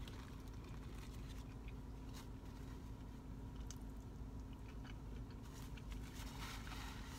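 Faint close-up chewing and biting of a fast-food burger, over a steady low hum.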